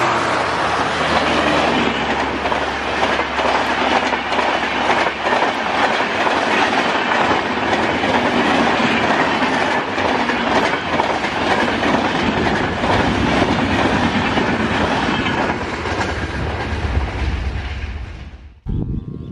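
A double-headed diesel passenger train passing close at speed. The two locomotives' engines drone as they go by, then the coaches' wheels clatter over the rail joints. The sound cuts off suddenly near the end.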